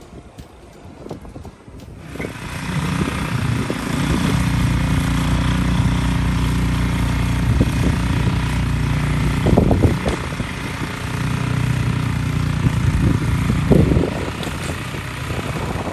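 A combustion engine running close by, starting about two seconds in and holding a steady pitch, with brief louder surges around the middle and again near the end. Wind noise on the microphone before it starts.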